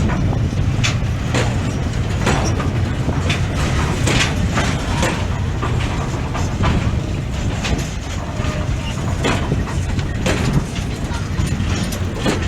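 Freight train of container wagons rolling past: a steady low rumble of wheels on rail with frequent irregular knocks and clanks.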